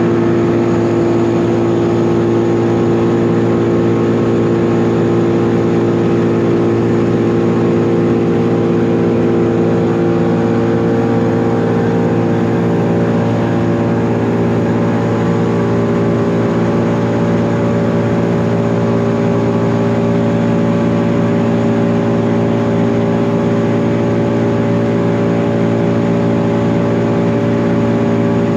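Engine of heavy tree-removal machinery running steadily at a constant speed.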